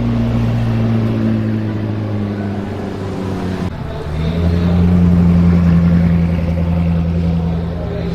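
Koenigsegg Agera RS twin-turbo V8 running at low revs, its engine note easing slightly downward. About four seconds in it changes abruptly to a deeper steady note that grows louder, then eases a little near the end.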